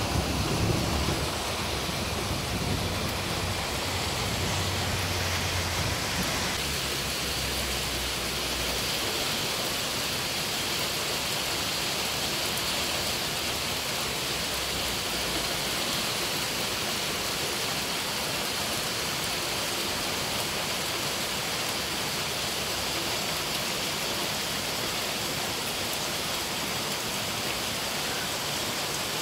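Heavy rain mixed with hail pouring down in a steady hiss. A low rumble of thunder fades out over the first several seconds.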